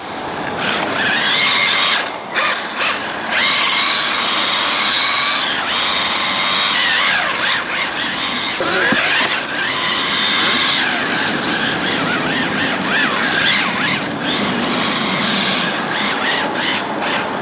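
SG 1603 1/16-scale RC drift car being driven: a high electric whine with squealing that rises and falls in pitch as the throttle changes and the car slides.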